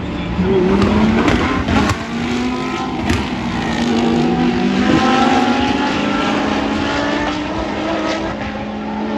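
Several race car engines running at high revs as cars pass on the circuit, their overlapping pitches gliding up and down, with a few sharp cracks about two and three seconds in.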